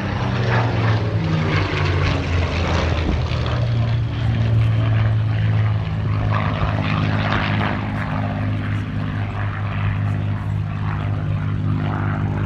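Supermarine Spitfires' Rolls-Royce Merlin V12 piston engines and propellers in a loud, steady drone, the engine note shifting slightly about three seconds in.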